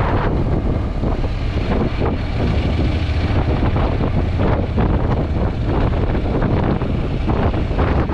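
Heavy wind buffeting a GoPro 8 Black's built-in microphone on a moving Honda NC750X motorcycle, a dense rumbling roar with irregular gusts. Any engine sound from the bike is buried under it.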